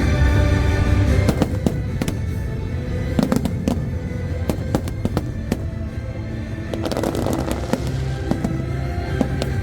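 Fireworks going off: a rapid run of sharp bangs and crackles from shells bursting, thickest about seven seconds in. Music plays underneath and is most prominent in the first second or so.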